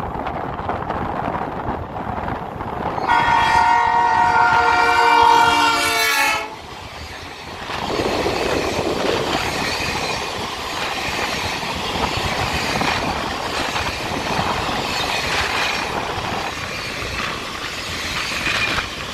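ONCF DH-426 diesel locomotive sounding one long chord horn blast of several tones for about three seconds as it approaches. A few seconds later the train passes close at speed, its passenger coaches rumbling and their wheels clattering over the rail joints.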